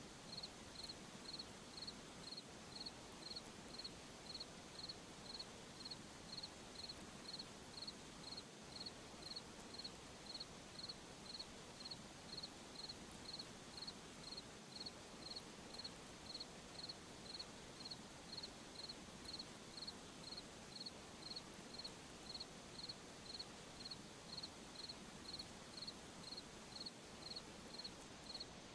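A cricket chirping faintly in a steady, even rhythm, about three chirps every two seconds, each chirp a short high-pitched trill, over a soft steady hiss of background.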